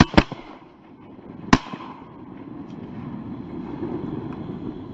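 Shotgun blasts at teal: two shots in quick succession at the very start, then a third about a second and a half in, each with a short ringing tail. A low rushing noise then builds and runs on.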